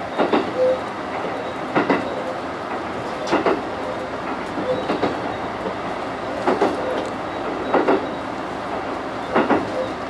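Diesel train's wheels clattering over rail joints, a pair of clicks about every one and a half seconds, over the steady rumble of the train running along the track, heard from inside the cab.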